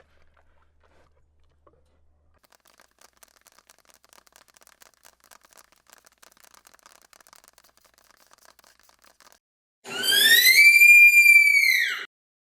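A sika deer stag's whistling call: one loud, high squealing whistle, about two seconds long, that rises in pitch, holds, then falls away. It comes near the end, after faint scattered crackling.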